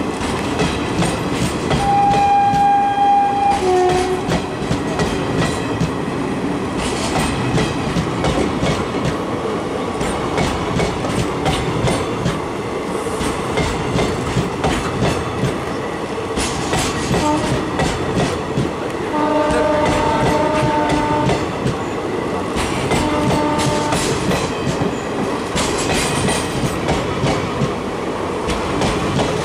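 A train running past at speed, its wheels clattering steadily over the rail joints. Its horn sounds one long blast near the start that drops to a lower note at the end, then two shorter chord blasts about two-thirds of the way through.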